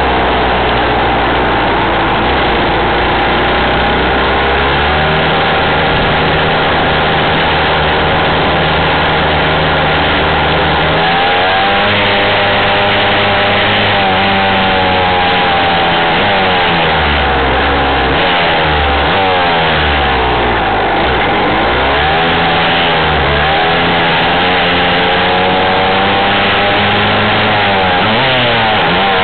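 Dirt bike engine running close up as the bike rides along, over road and wind noise. It holds a fairly steady pitch for the first ten seconds or so, then revs up and down repeatedly through the rest.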